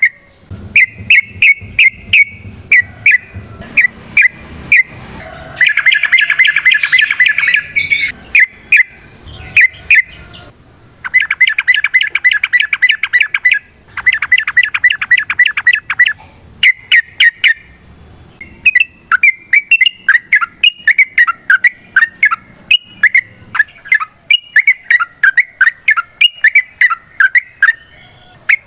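Yellow-vented bulbuls calling excitedly in a combative, 'gacor' series. Sharp chips give way to long rapid trills, about nine notes a second, starting about six, eleven and fourteen seconds in. After that comes a run of chattering, warbling notes.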